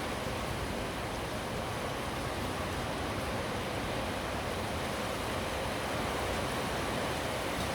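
Steady rain falling during a thunderstorm, an even hiss with no thunderclap in it.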